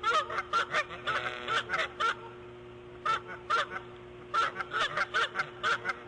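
Bird calls: short, harsh, pitched notes coming in quick runs of about four to five a second, with pauses between the runs, over a steady low electrical hum.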